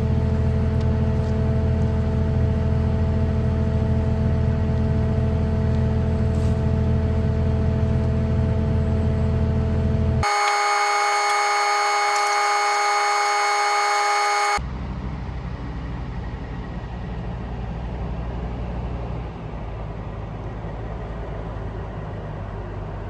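A vehicle engine running steadily. About ten seconds in it cuts abruptly to a few seconds of steady, high, buzzer-like tones, then to a quieter, steady engine rumble.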